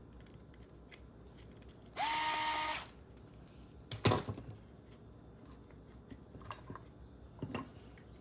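Small cordless power screwdriver run briefly, spinning up to a steady whine for under a second about two seconds in, as a gearbox screw is driven out. A sharp clack follows about four seconds in, then a few light clicks of small parts and tools on the bench.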